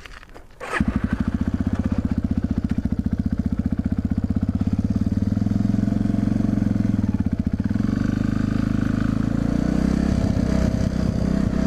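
Motorcycle engine running, suddenly loud from about a second in, with a fast steady firing beat; its speed shifts a little in the second half.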